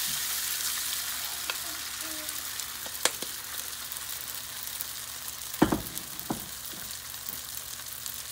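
Soaked sago pearls sizzling as they land in hot oil in a frying pan, the sizzle slowly fading, while a wooden spatula stirs them. A few sharp knocks break in, the loudest about five and a half seconds in.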